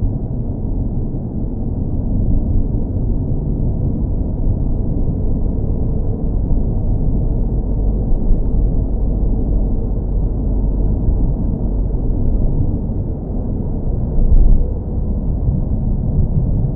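Steady low car engine rumble, muffled with nothing high-pitched in it, and a brief louder bump about fourteen seconds in.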